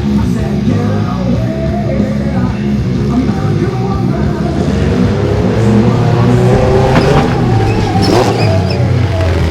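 A mini monster truck's engine running and revving as it starts its run, its pitch climbing over the last few seconds, mixed with loud rock music.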